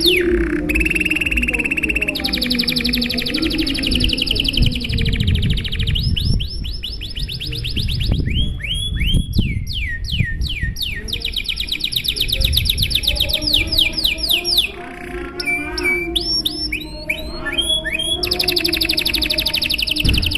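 Domestic canary singing a long, unbroken song: rapid trills of fast repeated notes, switching to a new trill every second or two.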